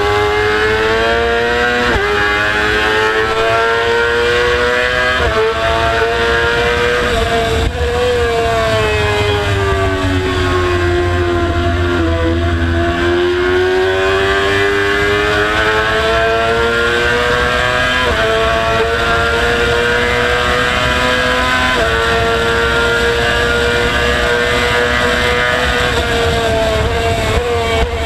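Race-prepared motorcycle engine run hard around a track, heard from on board. The pitch holds high with several sudden steps at gear changes, dips and climbs again through a slower section, and a steady low rumble runs underneath.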